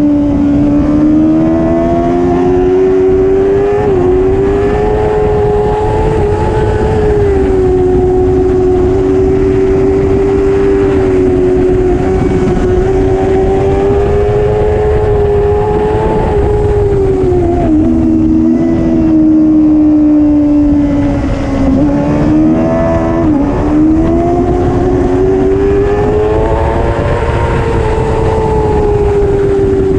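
Superbike racing motorcycle engine running hard at high revs, its pitch rising and falling with the throttle. There are a few quick dips in pitch, about four seconds in and twice past the middle, over a steady low rumble.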